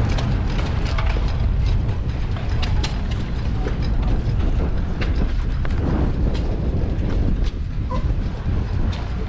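Wind buffeting the microphone with a heavy rumble, over irregular clicks and knocks of running machinery such as hit-and-miss engines.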